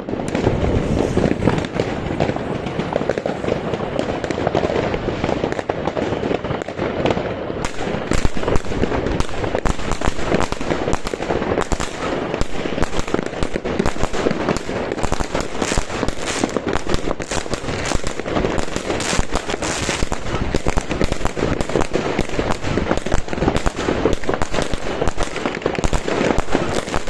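A 49-shot, 16 mm consumer fireworks cake firing: a dense, rapid stream of bangs and crackles with no let-up, growing sharper and brighter about eight seconds in.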